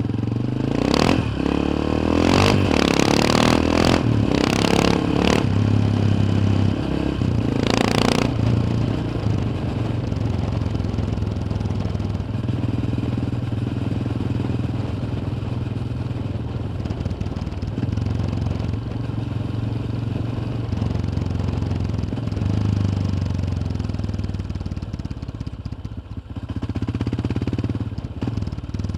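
Yamaha XT 600's single-cylinder four-stroke engine running steadily while riding, heard from on board. Several short bursts of hissing noise come in over the engine during the first eight seconds.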